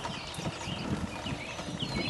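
Small birds chirping in short calls over a low, irregular knocking.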